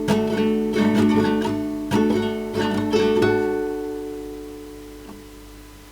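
Acoustic guitar strumming chords in an instrumental break between sung lines; the last chord, about three seconds in, is left to ring and fade away.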